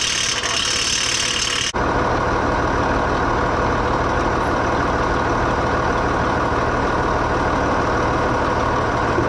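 Tractor engine running steadily at an even speed. About two seconds in, a hissing sound cuts off abruptly, leaving only the engine's drone.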